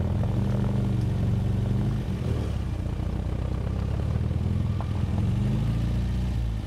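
Classic MG MGA sports car's four-cylinder engine running at low speed, heard from its open cockpit as the car rolls into a stop. The engine note shifts in pitch about two seconds in and rises briefly near the end.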